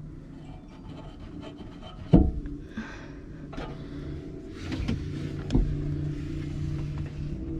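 A shelf being held up and shifted against a vehicle's interior bodywork: a sharp knock about two seconds in, then rubbing and scraping with a couple of lighter knocks.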